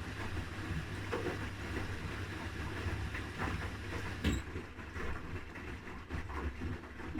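Haier HW80-B14979 front-loading washing machine running a wash cycle: a steady low rumble from the motor and the turning drum and load, with a few knocks, the sharpest about four seconds in.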